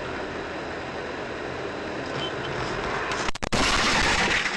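Steady driving noise from a vehicle on a winter road, engine and tyres running together. After a brief dropout about three and a half seconds in, it turns into a louder rushing noise for about a second.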